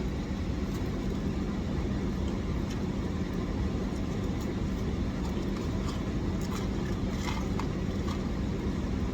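Steady low hum of a car's idling engine, heard from inside the cabin, with a few faint clicks of handling food about two-thirds of the way through.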